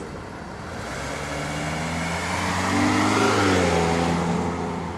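A motor vehicle driving past: its engine and tyre noise swell to a peak about three seconds in, then fade as the pitch drops while it moves away.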